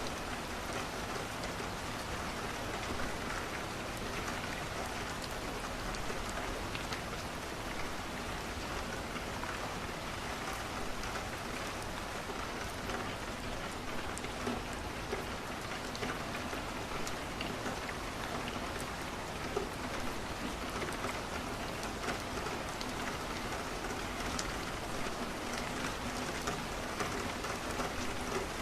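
Steady rain pattering on a window, with scattered small crackles and pops from burning wood in a fireplace.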